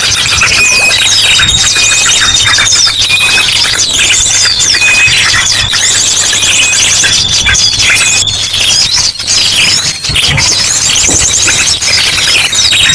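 Bird-lure recording of many small birds calling and chattering at once, mixed with ashy drongo calls. It is full of quick chirps, fast trills and short sweeps, with a long, steady high whistle running from about a second in until past the middle, and again near the end.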